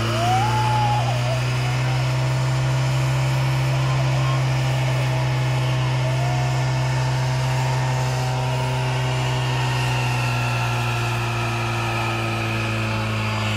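Car engine running at a steady, unchanging pitch, with a few faint wavering whistles in the first second and again about six seconds in.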